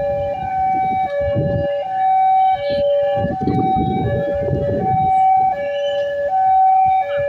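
Two-tone warning alarm, most likely an Indonesian railway level crossing's electronic warning signal, alternating steadily between a high and a low tone about every two-thirds of a second.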